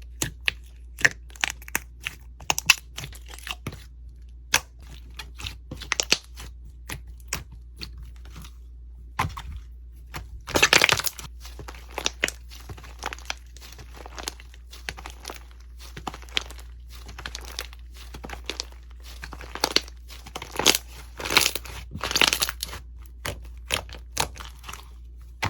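Slime being pressed and squeezed by hand, giving quick sharp crackles, pops and crunches, with a louder stretch of dense crackling about ten seconds in and more clusters a few seconds before the end.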